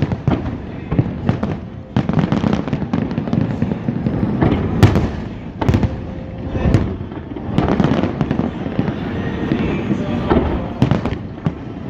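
Aerial fireworks going off in quick succession, a continuous run of bangs and crackles, the loudest bang about five seconds in.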